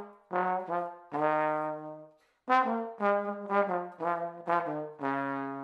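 Solo trombone playing a short melody one note at a time. It comes in two phrases, each ending on a long held low note.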